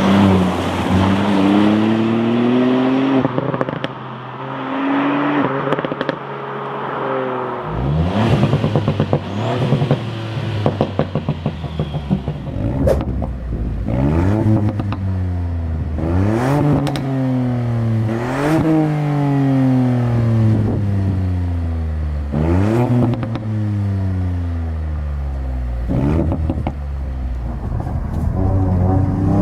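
Ford Fiesta ST Mk8's turbocharged three-cylinder engine and exhaust, revved and then accelerating hard through several gears. The pitch climbs and drops sharply at each shift.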